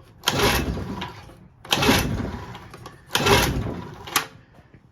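Roughly 50-year-old 6 hp Evinrude two-stroke outboard being pull-started: three pulls of the recoil starter about a second and a half apart, each a rasping whirr as the motor turns over and then dies away without firing. The motor has no spark. A sharp click near the end.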